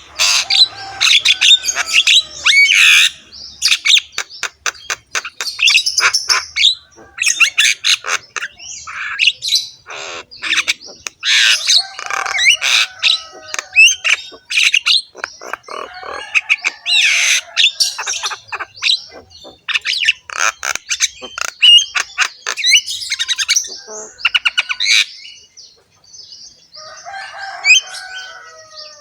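Javan myna singing vigorously in a long, dense run of harsh, rasping chatter mixed with rapid clicks and whistled notes, easing briefly into quieter calls near the end.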